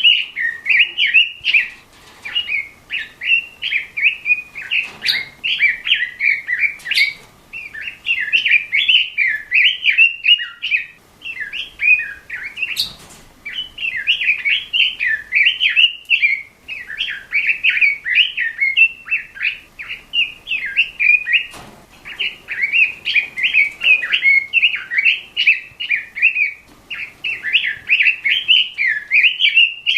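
Pekin robin (red-billed leiothrix) singing continuously in fast, warbling phrases separated by brief pauses, with a few sharp clicks in between.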